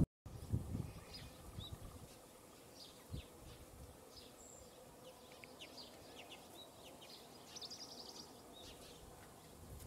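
Faint birdsong: small birds chirping in many short, high notes throughout. Wind rumbles on the microphone in the first second, and there is a single soft low bump about three seconds in.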